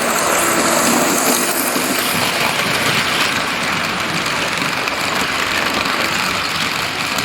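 A pair of 1970s TYCO model SD24 diesel locomotives running fast together, pulling a freight train on the track: a steady, loud whirring of the electric motors and gears mixed with the running noise of wheels on the rails.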